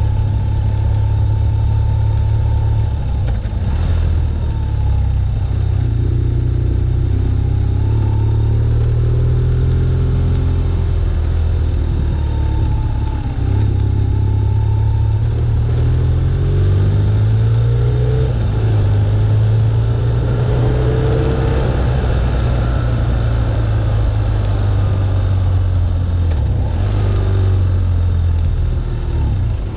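BMW R1200GS air/oil-cooled boxer twin running under way, heard from a windshield mount with wind and road noise. The engine pitch rises in several steps through the middle as the bike speeds up, then drops near the end.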